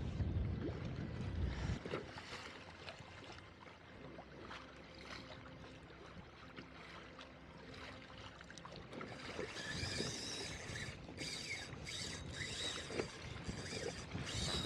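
Water and wind noise around a fishing kayak, with a low rumble of wind on the microphone for the first couple of seconds. About nine seconds in, a high, steady mechanical whine with a clicking, stop-start pattern comes in.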